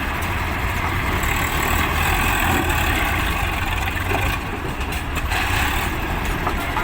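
Swaraj 744 tractor's diesel engine running steadily with a heavy low rumble while the tractor is stuck with its loaded trolley.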